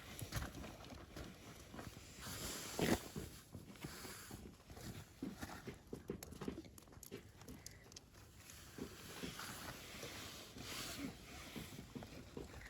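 Wood campfire crackling, with irregular small pops and snaps and stretches of hissing flame noise.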